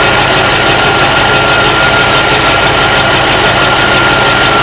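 Supercharged LS2 V8 idling steadily, with a steady high whine over the engine sound. The engine is being run at idle to purge air pockets from the cooling system through the open coolant filler.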